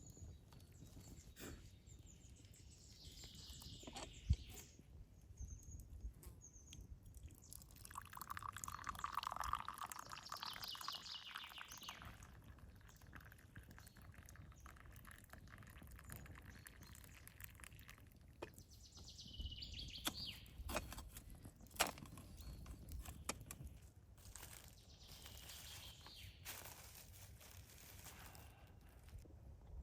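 Birds calling on and off, with scattered sharp clicks and knocks of handling.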